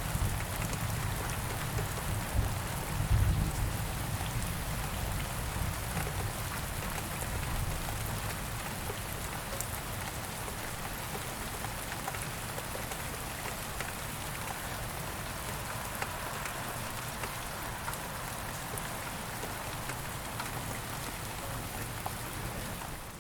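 Steady rain falling, a dense hiss of drops with scattered small patters. A low rumble of thunder fades away over the first few seconds.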